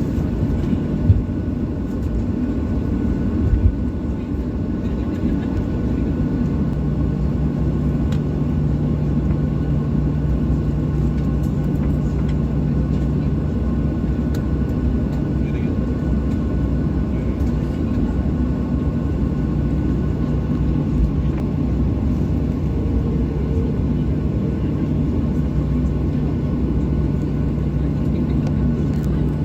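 Steady engine and airframe rumble heard inside the cabin of a Boeing 737-800 airliner, with a low hum running through it. There are two brief knocks, about one and three and a half seconds in.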